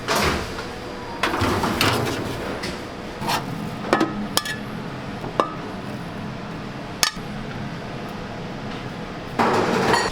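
Kitchenware knocking and clinking: a string of separate sharp knocks, some with a short ringing tone, with a few brief scraping rustles.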